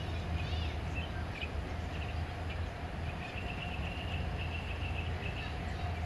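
A bird trilling, a rapid run of high notes lasting about two seconds near the middle, with a few shorter chirps before it, over a steady low rumble.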